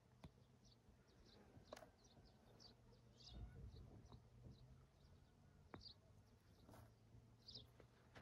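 Faint bird chirping: short, high chirps repeating irregularly, a few a second, with a few soft clicks and a low steady hum under them.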